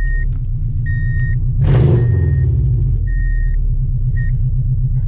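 Subaru Legacy boxer engine idling with a loud, deep exhaust rumble, freshly started, swelling briefly about two seconds in. A dashboard warning chime beeps five times on one high note.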